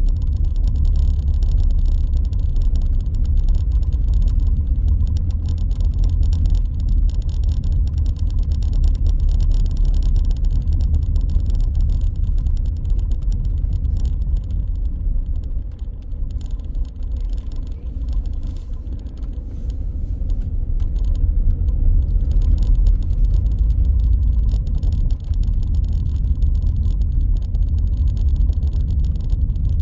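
A car driving with a steady low rumble of engine and road noise. The rumble eases off for a few seconds about halfway through, as if slowing, then builds again.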